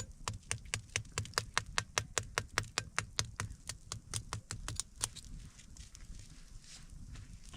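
A rapid, even series of sharp taps or clicks, about four or five a second, that stops about five seconds in.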